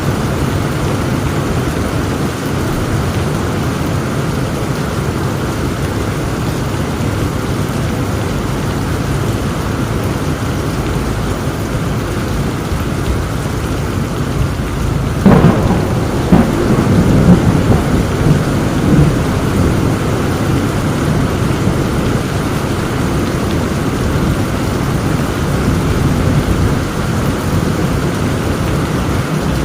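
Steady heavy rain, with a sudden crack of thunder about halfway through that rolls on in rumbles for a few seconds.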